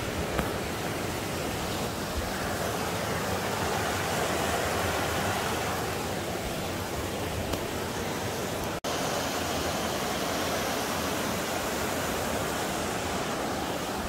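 Rushing mountain stream: a steady hiss of flowing water, broken by a brief dropout about nine seconds in.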